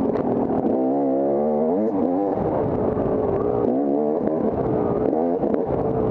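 Off-road dirt bike engine revving up and falling back again and again as it is ridden through the course, its pitch climbing and dropping several times, with scattered knocks and clatter.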